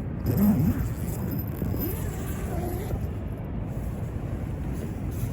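A steady low rushing noise, with a brief voice-like sound about half a second in.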